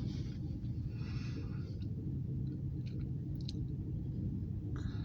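A person breathing softly close to the microphone, with a few small clicks, over a steady low rumble.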